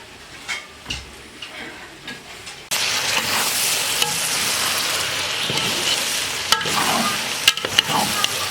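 Food sizzling hard in a hot cooking pot. The sizzle starts suddenly about three seconds in, as if something is added to the hot fat, and a utensil clicks and scrapes against the pot, most around the end.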